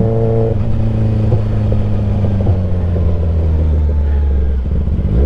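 Kawasaki ZX-10R's inline-four engine, fitted with an SC Project S1 exhaust, running with a steady note. Its pitch drops about halfway through, and the deep low note fades near the end.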